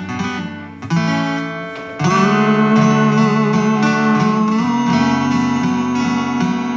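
Acoustic guitar played through the closing bars of a song, with no singing. About two seconds in, a long held note that wavers slightly joins the guitar.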